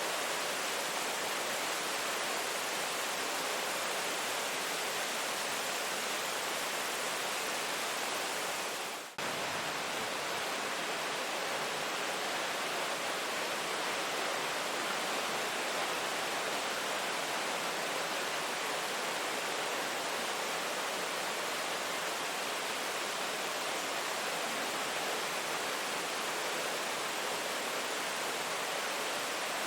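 Steady rain, a dense even hiss with no separate drops standing out. About nine seconds in it briefly fades down and then cuts straight back in.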